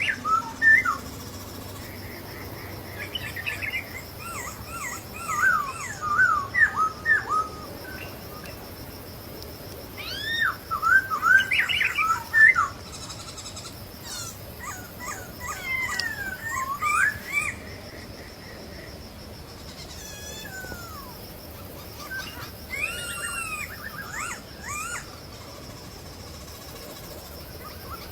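Masked laughingthrushes (poksay Hongkong) calling in bouts of quick, rising and falling chattering notes, a new bout every few seconds, over a faint steady high tone in the background.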